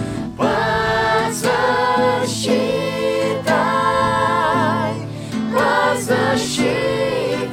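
A Christian worship song: singing in long held notes with vibrato over instrumental accompaniment.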